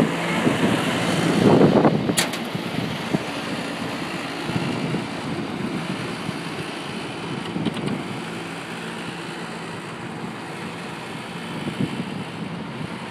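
Steady low hum of rooftop HVAC equipment running, over an even background rush, with one sharp click about two seconds in.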